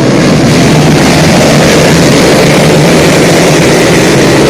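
Motocross motorcycle engines running loud and steady.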